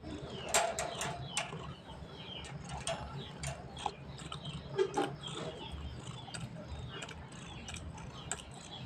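Irregular small clicks and taps, a few louder ones, over a low steady hum.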